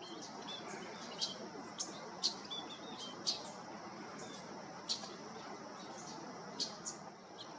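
Small wild birds giving short, sharp, high chip notes, scattered irregularly about once a second, over a steady outdoor hiss.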